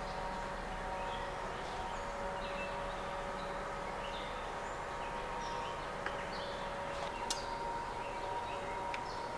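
Small birds chirping in short high calls over a steady background hum, with a few sharp clicks about six, seven and nine seconds in.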